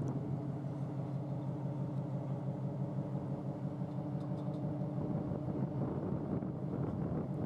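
Low, steady engine drone of a departing general cargo ship, a constant hum with a rumble under it.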